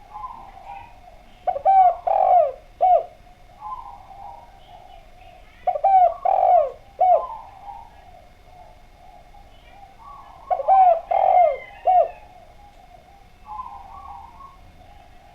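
Spotted dove (derkuku/tekukur) singing its cooing song: three phrases about four to five seconds apart, each a quick run of three or four falling coos. Softer calls come between the phrases.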